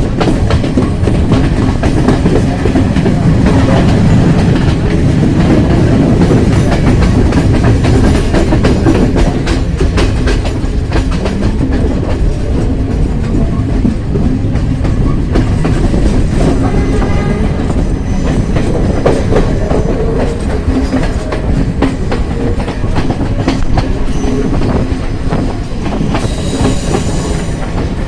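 Train running along the track with a steady rumble and wheels clacking over the rail joints. A brief high squeal rises above the run near the end.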